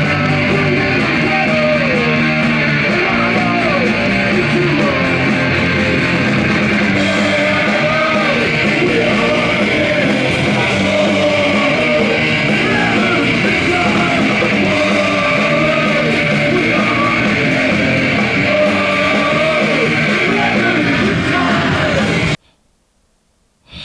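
Loud punk rock band playing, with distorted guitars, drums and shouted vocals; the music cuts off abruptly near the end.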